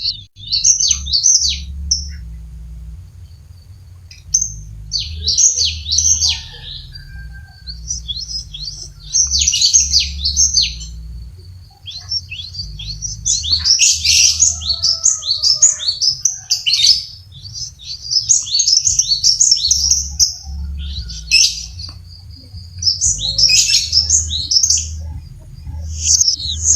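Cinereous tit (gelatik batu) singing vigorously, in repeated bouts of rapid high chirps, each a second or two long with short pauses between.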